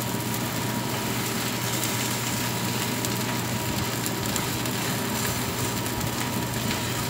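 Oil sizzling and crackling steadily under pancakes frying in two skillets, over a steady low hum.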